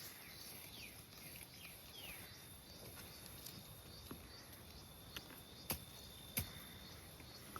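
Quiet outdoor ambience: a few short, falling bird chirps in the first couple of seconds over a steady high insect hiss. A few sharp clicks come later, two of them louder, about a second apart.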